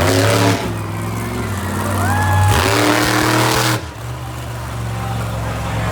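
Monster truck engine revving hard: the pitch climbs near the start and again about two and a half seconds in, then drops off suddenly before four seconds to a lower, steadier running note.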